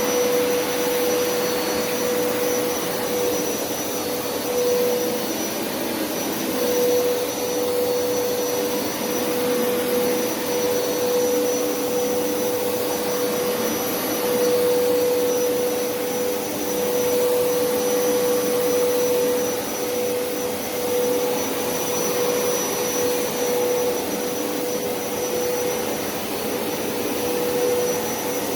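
Hoover SpinScrub50 carpet cleaner running steadily, its suction motor giving a constant whine over a rushing noise, with slight swells in level. It is on a dry pass, sucking leftover dirty water out of the carpet without spraying.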